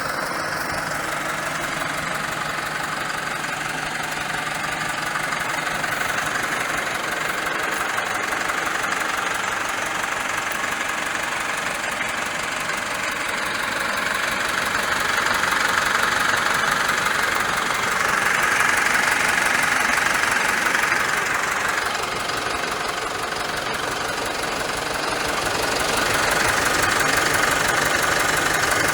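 Steyr 4075 Kompakt tractor's 75 hp four-cylinder FPT diesel engine running steadily, growing louder for a few seconds around the middle and again near the end.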